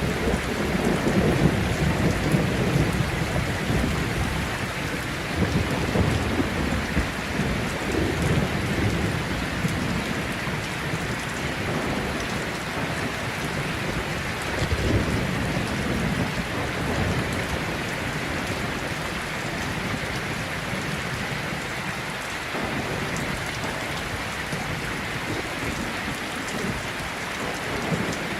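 Heavy rain falling steadily with rolling thunder. The thunder rumbles loudest in the first few seconds and swells again a few times before the middle.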